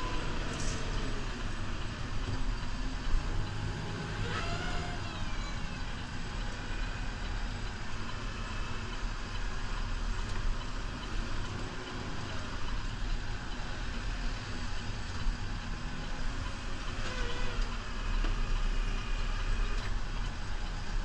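New Holland Powerstar 75 tractor's diesel engine running steadily, with a faint rising whine twice, a few seconds in and again near the end.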